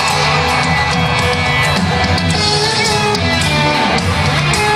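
Live country-rock band playing loudly, with electric guitar and a drum kit keeping a steady beat, and scattered shouts from the crowd.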